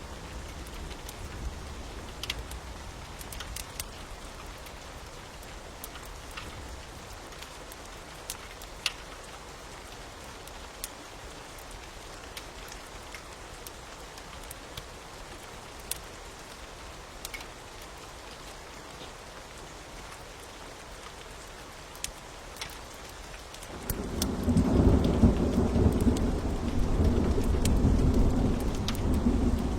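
Steady rain with scattered sharp crackles from a fire. Near the end a loud rumble of thunder sets in suddenly and rolls on.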